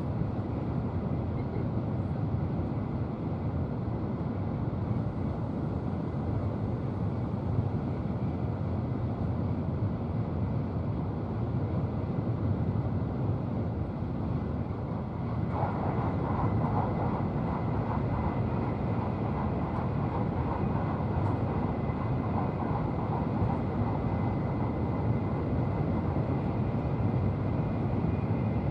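Steady running noise heard inside the cabin of an N700-series Shinkansen train at speed: a deep rumble with rushing noise. About halfway through, the sound turns brighter and harsher and stays that way.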